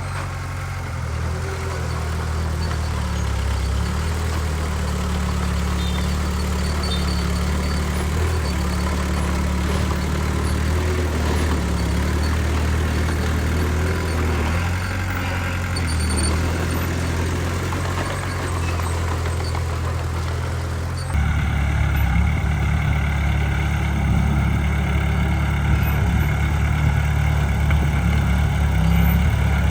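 Heavy diesel engines of earthmoving machinery running steadily. About two-thirds of the way through, the sound changes abruptly to a louder, rougher engine.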